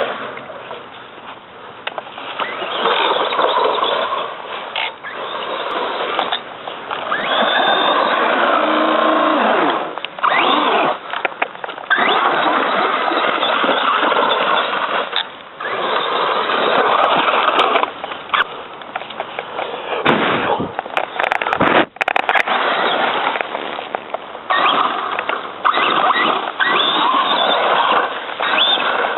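Traxxas Slash 4x4 RC truck's brushless motor and drivetrain whining under throttle as it drives off-road over dirt and rocks, in long bursts with a few short let-offs.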